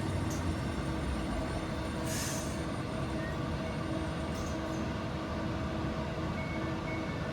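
Class 397 electric multiple unit standing at the platform, its equipment giving a steady low hum with a pulsing tone, a short hiss of air about two seconds in, and a string of short high beeps near the end.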